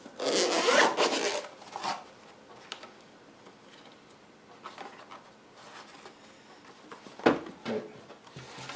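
Handling noise: something rubbed or scraped against a surface for about two seconds, then a sharp knock near the end with a smaller one just after.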